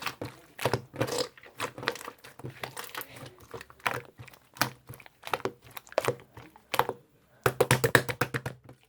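Irregular crinkling and crunching, a string of short sharp clicks, with a quick dense run of them about seven and a half seconds in.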